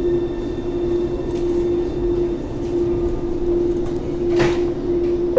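Thessaloniki Metro train running, heard from inside the car: steady rolling noise under a constant motor hum, with one brief knock about four seconds in.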